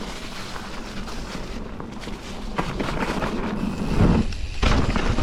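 Mountain bike ridden fast along a muddy, snowy trail: tyre and wind rumble on the camera mic, with heavy thumps about four seconds in as the bike hits bumps or lands.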